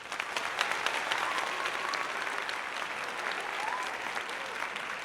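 Crowd applause: many hands clapping steadily.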